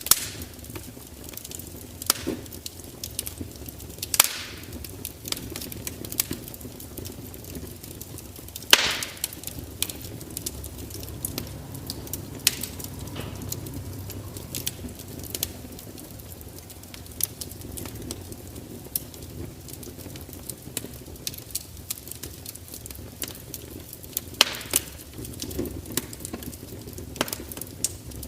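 Fire crackling: irregular sharp pops and snaps over a low steady rumble, with a few louder pops scattered through.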